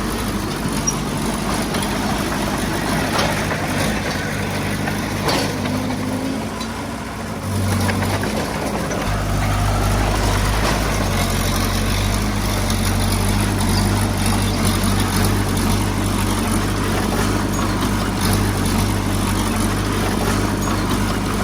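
Heavy-equipment diesel engine running steadily, easing off briefly and then picking up again with a stronger low hum about eight to nine seconds in.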